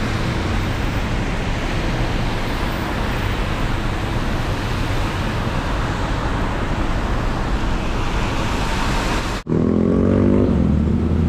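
Heavy rain falling in a steady loud hiss. About nine seconds in it cuts abruptly to a vehicle engine running with a low hum.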